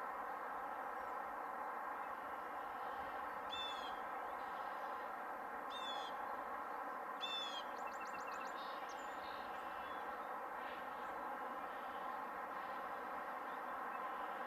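A songbird sings several short phrases of quick, repeated downslurred whistles, ending in a fast trill about halfway through. Under it runs a steady distant hum.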